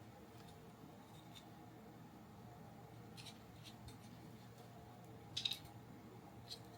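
Faint clicks and taps of small kit parts and tools being handled during model assembly, a couple around three seconds in and a louder quick cluster about five and a half seconds in, over a low steady hum of room tone.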